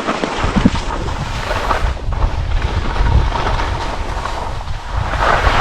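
Wind buffeting the microphone in a steady, rumbling roar, over a broad hiss of skis sliding on snow during a downhill run.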